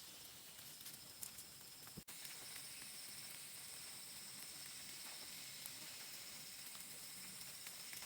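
Faint forest ambience: a steady high-pitched insect drone with scattered small ticks. It cuts out for an instant about two seconds in, then carries on slightly louder.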